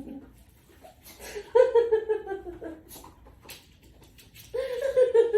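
A dog vocalizing: two drawn-out whining howls, each falling in pitch, about three seconds apart.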